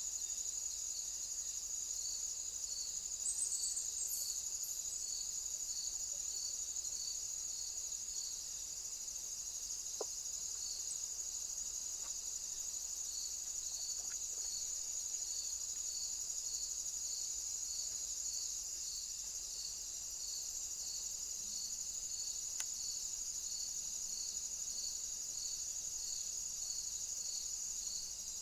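Crickets chirring: a steady high trill with a regular pulsed chirp, about three every two seconds. A brief high twitter comes a few seconds in.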